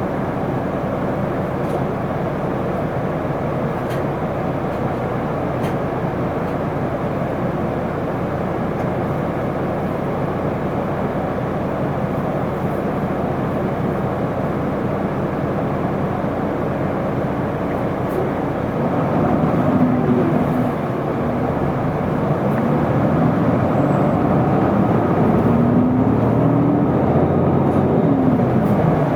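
Isuzu Erga city bus's diesel engine and drivetrain running while the bus drives. In the last ten seconds a pitch glides up and down several times and the sound grows louder as the bus pulls away and accelerates.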